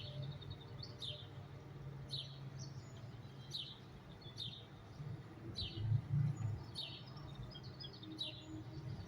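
Small birds chirping repeatedly: short chirps that fall in pitch, about one a second. Under them runs a low, steady rumble that swells briefly about six seconds in.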